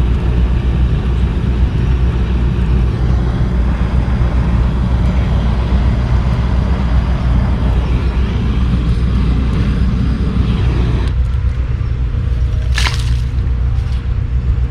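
Wind buffeting the microphone outdoors: a loud, steady low rumble that thins out about eleven seconds in. A short hiss sounds near the end.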